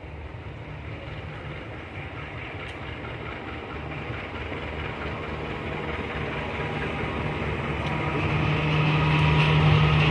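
Train approaching, its locomotive's engine hum and rail noise growing steadily louder, with the engine hum strongest near the end.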